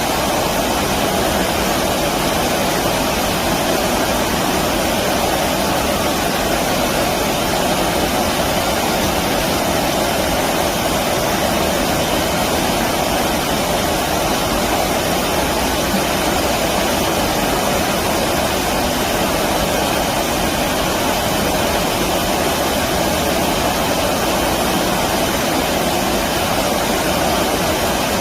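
Flowing stream water rushing, a steady, even rush with no breaks or changes.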